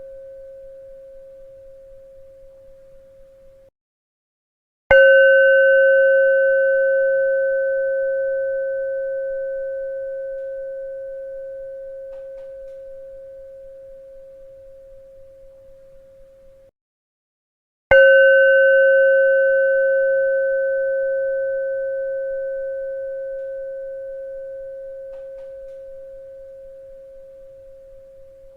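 A bell struck twice, about thirteen seconds apart, each strike ringing one clear, slowly fading tone with fainter higher overtones. Each ring is cut off abruptly before it has died away. The fading tail of an earlier strike is cut off the same way near the start.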